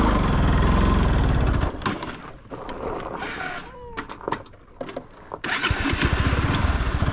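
Motorcycle engine running under way. About two seconds in it falls away to a much quieter stretch with a few clicks, and it comes back loud about five and a half seconds in.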